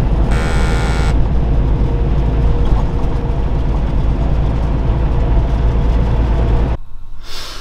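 Semi-truck engine and road noise heard from inside the cab while driving: a loud, steady low rumble. A brief higher-pitched sound lasting under a second comes near the start, and the rumble cuts off suddenly near the end.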